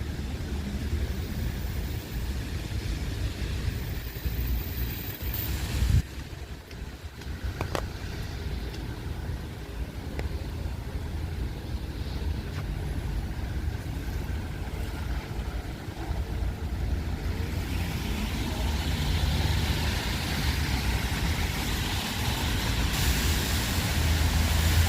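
Wind buffeting the microphone over street traffic on wet roads, with a hiss that swells toward the end as vehicles pass. A brief thump about six seconds in.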